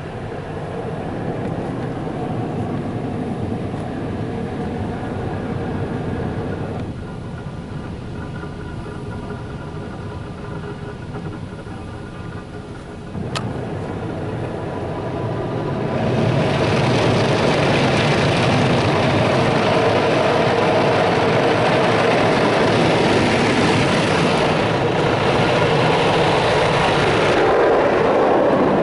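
Mark VII ChoiceWash XT in-bay automatic car wash running, heard from inside the truck's cab: at first an even mechanical rumble with a faint steady whine, then a sharp click about 13 seconds in. From about 16 seconds in, a loud hiss of water spraying onto the truck takes over.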